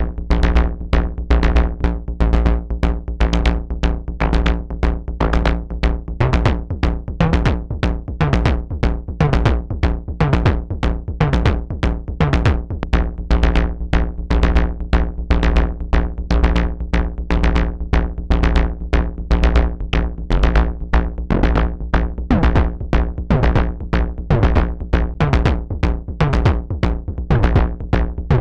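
Analog semimodular percussion synthesizer playing a sequenced drum pattern: a fast, even run of synthesized hits over a steady deep bass, some notes gliding in pitch.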